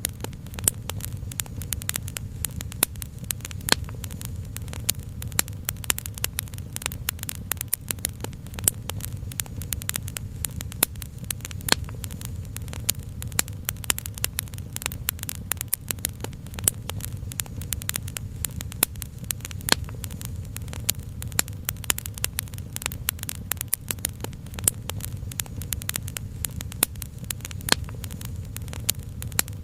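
Wood fire crackling with many small, irregular pops over a steady low rumble.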